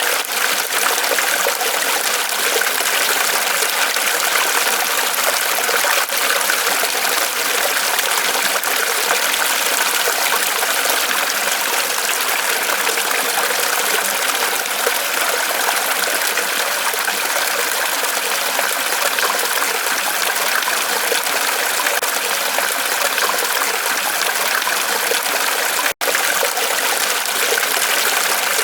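Small waterfall trickling and splashing steadily as water runs down a tree trunk. There is a split-second dropout near the end.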